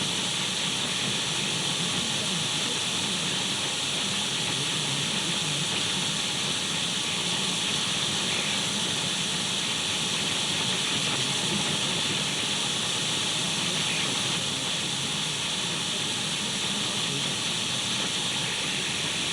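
Steady radio static: the even hiss of an untuned radio, with no changes.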